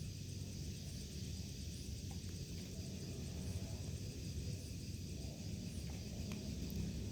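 Outdoor ambience: a steady low rumble, with a faint, even high-pitched insect chirring over it.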